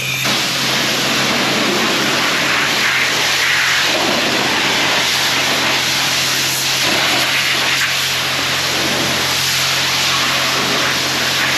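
Self-serve car wash high-pressure wand spraying water, coming on right at the start and hissing steadily, over a steady low hum.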